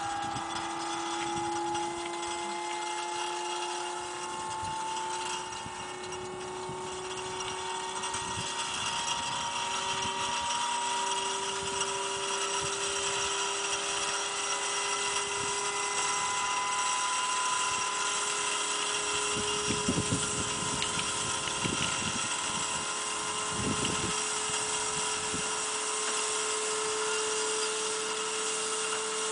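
Electric motor of a homemade electric-hydraulic dump-bed lift running under load, a steady whine whose pitch climbs slowly as the bed raises, over a steady hiss, with a few short knocks near the two-thirds mark.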